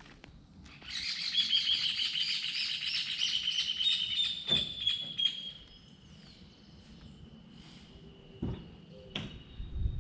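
Songbird chirping: a fast run of high twittering notes for several seconds, then a single thin high note drawn out and fading, with a few short knocks near the end.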